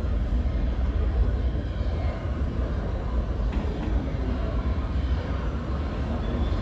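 New York City subway train running, a steady low rumble with rail and wheel noise.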